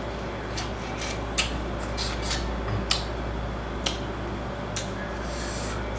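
Irregular clicks and crackles of seafood being handled and eaten, over a steady low hum.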